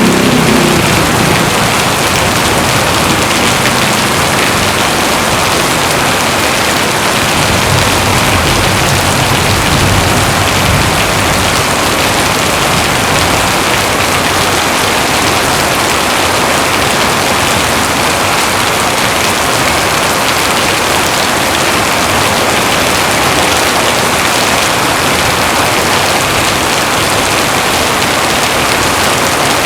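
Heavy rain falling steadily in a dense, even hiss. A low rumble fades out in the first second, and a fainter low rumble rises and passes about eight to eleven seconds in.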